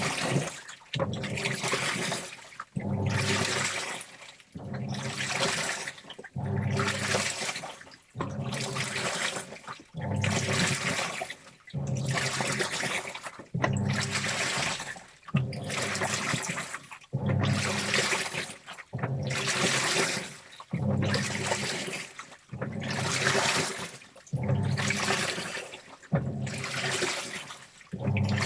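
Washing machine in its wash cycle: water sloshing with the clothes as the drum or agitator moves, in regular strokes about every one and a half seconds with brief pauses between. A low motor hum runs under each stroke.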